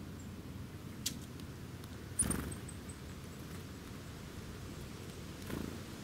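Small birds feeding on seed on the ground: a sharp tap about a second in, a louder thump around two seconds in followed by a quick fading run of very high, thin bird notes, and a softer flutter-like thump near the end, over a steady low rumble.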